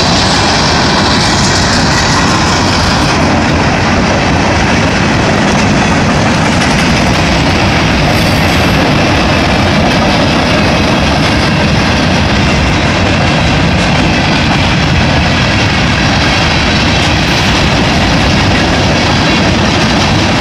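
A train passing close by: a loud, steady rumble of wheels running on the rails that holds unbroken throughout.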